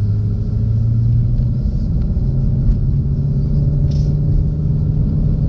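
2016 Ford Shelby GT350's 5.2-litre flat-plane-crank V8 running under way, heard from inside the cabin as a steady low drone. About two seconds in, the engine note steps up to a higher pitch and holds there.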